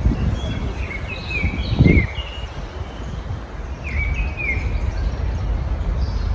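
Songbirds chirping and twittering in short bursts, twice over, over a steady low background rumble, with a brief low thump about two seconds in.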